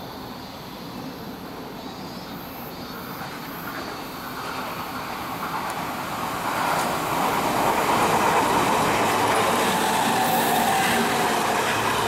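Odakyu 30000 series EXE Romancecar electric train passing through the station without stopping. The rumble of its wheels on the rails grows louder as it approaches, is loudest a few seconds before the end, and then begins to fade.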